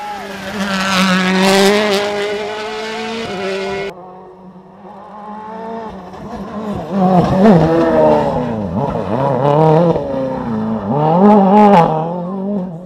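World Rally Car engines at full throttle as the cars pass, the revs climbing and dropping sharply with gear changes and lifts off the throttle. About four seconds in, the sound cuts abruptly to a second car, which builds to two loud peaks as it blasts past.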